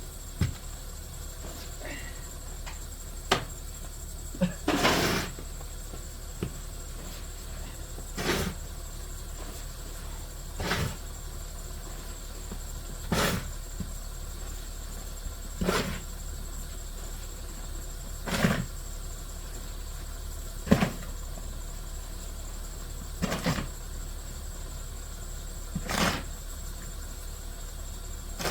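Snow being cleared by hand, a scraping stroke about every two and a half seconds in a steady rhythm, with a few quicker strokes a few seconds in.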